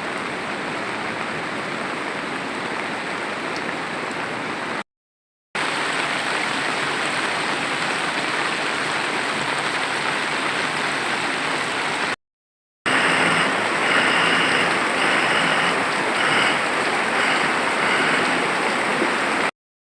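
Floodwater flowing hard, a steady dense rush of water. It is broken twice by brief silent cuts, about five seconds in and again after twelve seconds.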